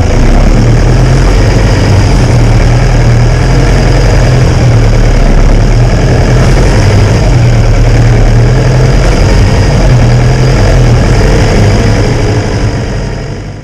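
Vehicle engine running steadily and loud, fading out near the end.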